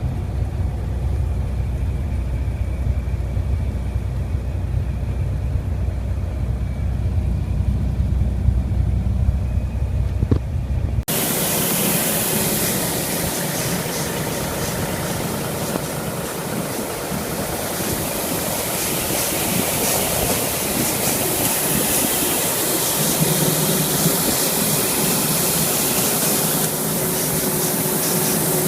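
Truck engine running with a steady low rumble; about eleven seconds in, the sound cuts abruptly to a loud, even rushing noise.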